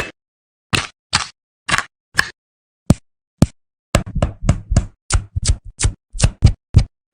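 A series of sharp clicks and knocks, each cut off short with silence between. They come about one every half second at first, then quicker, three or four a second, from about four seconds in.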